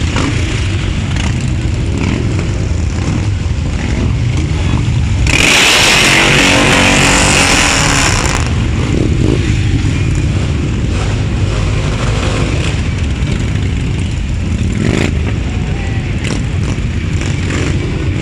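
Harley-Davidson V-twin motorcycle engines rumbling as bikes ride by, with a louder, harsher stretch about five seconds in lasting some three seconds.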